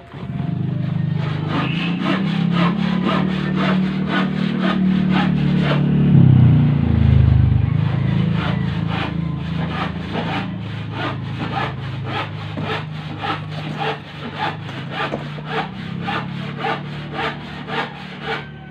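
Engine starting and running, picking up speed briefly about six seconds in, with a regular knock at about two strokes a second. The knock is being traced to the cylinder head and camshaft.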